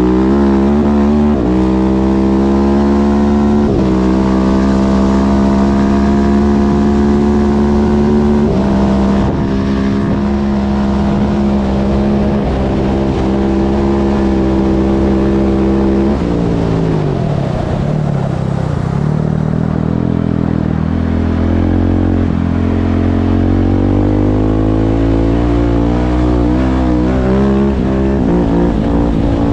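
Husqvarna 701 supermoto's single-cylinder engine pulling hard through the gears, its pitch dropping sharply at each quick upshift. About halfway through, the revs fall away as the throttle closes, then build slowly again.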